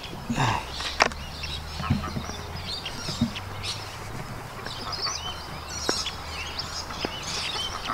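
Many short bird chirps and calls overlapping, with a couple of sharp clicks about a second in and near six seconds.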